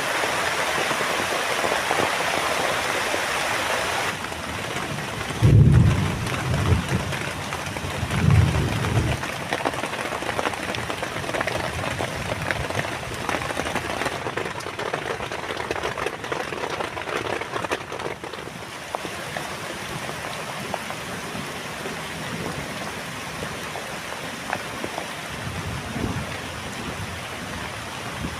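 Heavy rain falling steadily, with low rolls of thunder about five and eight seconds in, and another near the end.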